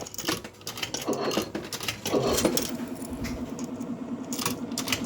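Arcade fruit machine sounds: light metallic clicking and clinking, like coins, then a steady low electronic tone from the machine from about two seconds in.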